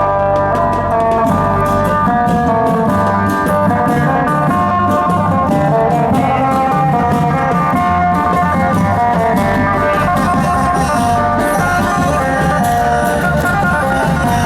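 Isan folk dance music with a plucked lute melody over sustained reedy tones and a busy beat of drum and cymbal strokes.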